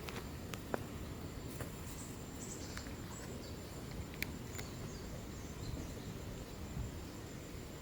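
Outdoor ambience: a thin, steady, high insect trill over low wind-like rumble, with a few short bird chirps about two to three seconds in and a few sharp clicks.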